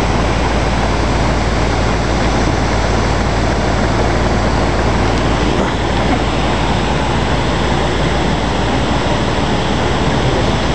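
Steady, loud noise of a large waterfall's falling water, unbroken and even throughout.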